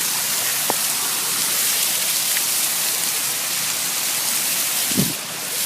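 Small waterfall's water running steadily, a constant rushing hiss. A brief dull thump comes near the end.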